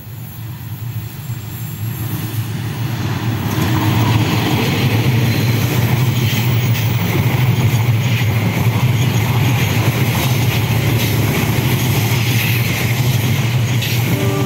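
Diesel train approaching, growing louder over about four seconds, then passing close by with a steady low engine drone and running noise on the rails.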